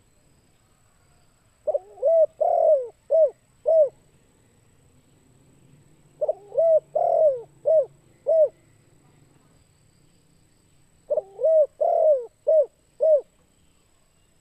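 Spotted dove cooing. It gives three song phrases about four and a half seconds apart, each of about five short notes with one longer, drawn-out note near the start.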